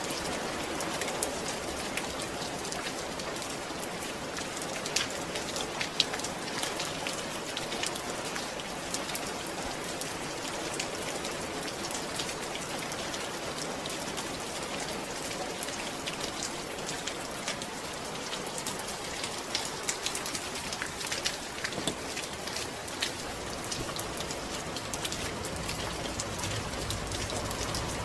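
Steady rain falling and pattering on a surface, with many individual drops ticking through the hiss.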